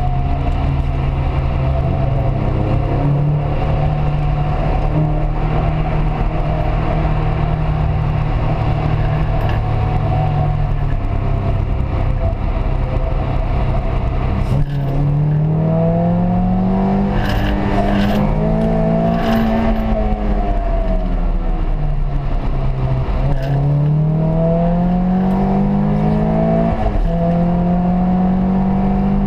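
Peugeot 206 RC's four-cylinder petrol engine under way. The engine note holds steady for about half the time, then climbs and falls several times as the car accelerates and shifts gear, with sharp drops in pitch at the changes.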